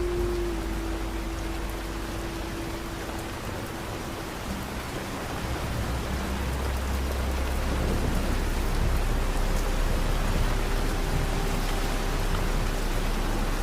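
Steady heavy rain pattering, with soft sustained low ambient music notes underneath and a deep low rumble that swells around the middle.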